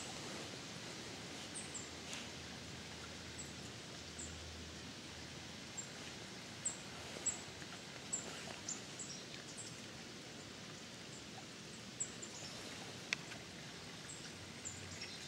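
Outdoor ambience: a steady faint hiss with many short, very high, thin bird chirps scattered irregularly throughout, and a couple of faint clicks.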